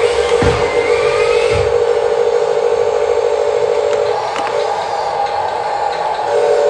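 Remote-control toy vehicle running with a steady whir; the pitch steps up about four seconds in and drops back near the end. Two low thumps come early on.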